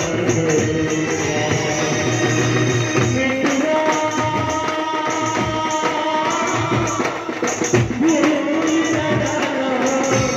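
Band music: a melody of long held notes that bend in pitch, played over a steady drum beat.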